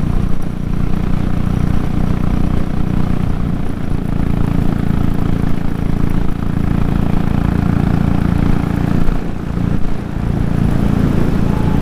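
Royal Enfield single-cylinder motorcycle engine running steadily under load at highway speed, about 3700 rpm in top gear, with wind rushing over the bike. The sound dips briefly near the end.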